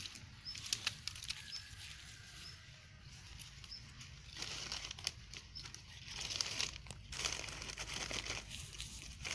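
Dry sticks and crumpled newspaper rustling and crinkling as they are handled and laid into a campfire stack, with scattered light clicks and knocks of wood. The rustling comes in irregular spells, fuller about halfway through.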